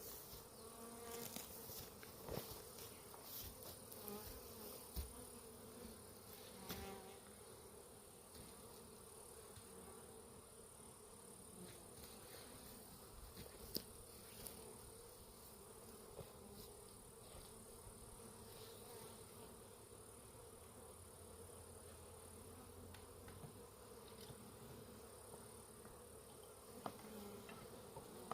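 Carniolan honeybees buzzing in flight around an opened, disturbed hive: a faint, steady hum, with a few light clicks and knocks in the first several seconds.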